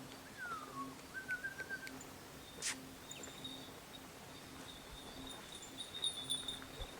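A bird calling in quiet outdoor ambience: a falling whistle, then a short even trill, with one sharp click partway through. A faint high steady tone comes and goes in the background.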